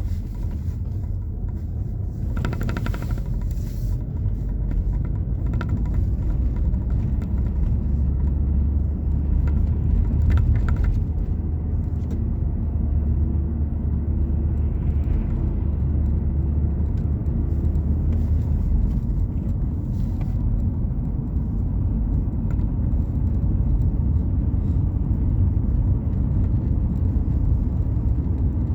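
A steady low rumble, strongest in the bass, with a few faint clicks in the first few seconds.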